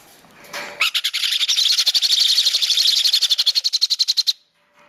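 Baby parrot's feeding call while being hand-fed from a syringe: a rapid, rhythmic, high-pitched squawking chatter that starts about a second in, runs for about three and a half seconds and cuts off suddenly.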